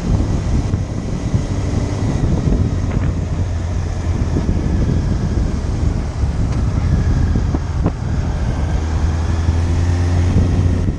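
Motorcycle engine running with a steady low hum, under rough wind noise buffeting the microphone.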